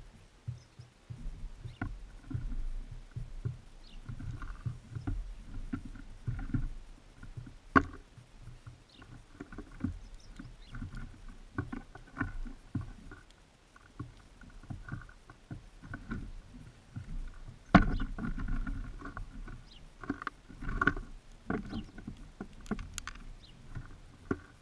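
Birds feeding at a seed feeder right beside the microphone: an irregular run of small pecks, scratches and knocks on the feeder as they pick at seed and hop about, with two sharper knocks about 8 and 18 seconds in.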